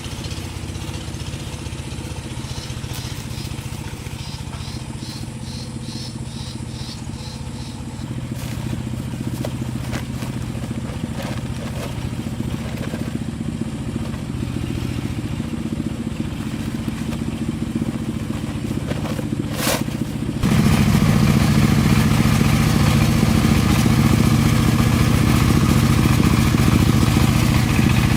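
An engine running steadily, becoming markedly louder about two-thirds of the way in.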